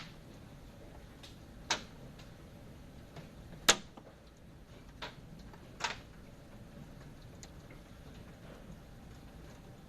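A handful of sharp, irregular taps or knocks, unevenly spaced, the loudest a little under four seconds in, over a faint steady background hiss.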